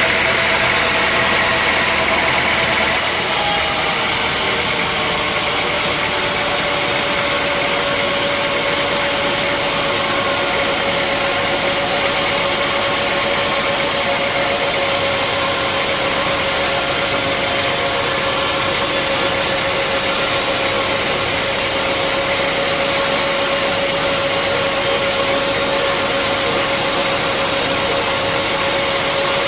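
Engine-driven sawmill machinery running steadily: a constant hum with a steady whine, the sound shifting slightly about three seconds in.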